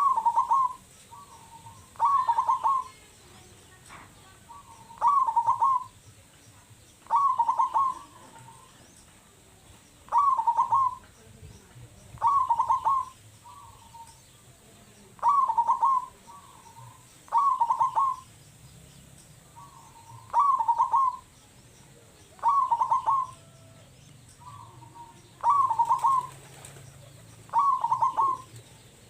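Zebra dove (perkutut) of local stock singing actively with a big voice. It repeats a short phrase of quick coo notes about every two to two and a half seconds, with softer coos between the phrases.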